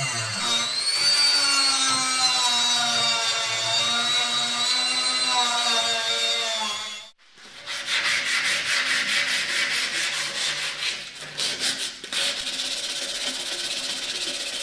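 A power tool whines steadily with a slightly sinking pitch for about seven seconds and stops abruptly. Then come rapid back-and-forth abrasive strokes, about five a second: sanding or rubbing down a part during a bike restoration.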